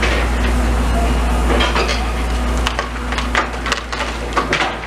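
Demolition work: rubble and debris clattering, with a run of sharp knocks and clanks in the second half over a steady low rumble.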